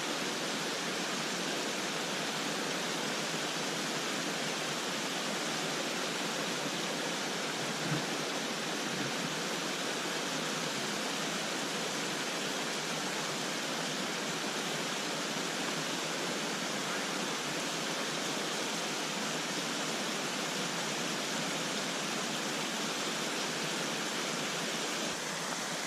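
Steady rushing of a mountain creek, an even hiss that does not change.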